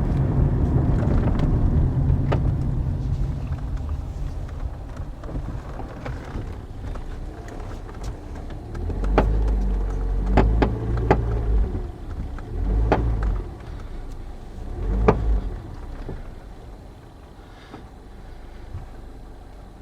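2009 Toyota Corolla's front suspension clunking while the car moves slowly: a low rumble, then several sharp knocks with dull thuds near the middle. The owner takes the noise for the passenger-side front strut's coil spring, with a bad or seized strut bearing.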